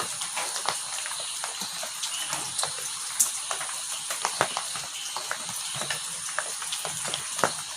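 Heavy rain falling steadily in an even hiss, with many sharp drops ticking and splashing on hard surfaces. A thin, steady high tone runs underneath it.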